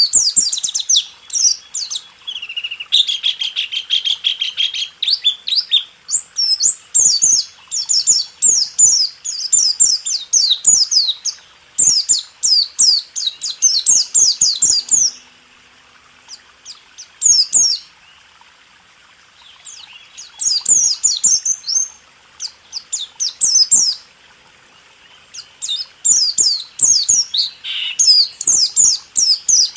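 White-eye (pleci) singing a fast rolling song: quick runs of high, down-slurred chirps, with a lower buzzy trill early on. The song thins to scattered notes for a few seconds about halfway through and again later.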